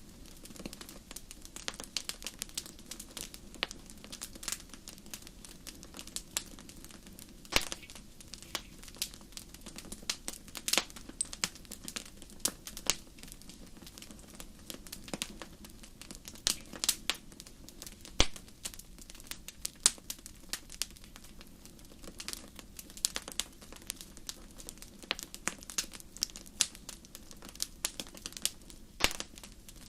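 Wood fire burning in a fireplace, crackling with irregular sharp pops over a steady low rush of the flames.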